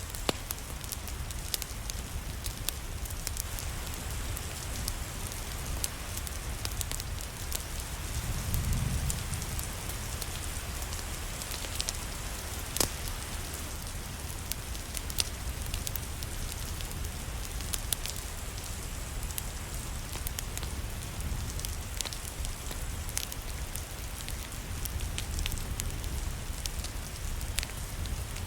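Rain falling steadily, mixed with a crackling fireplace: many sharp wood pops and snaps scattered through, one louder pop about halfway. A low rumble runs underneath, swelling briefly about a third of the way in.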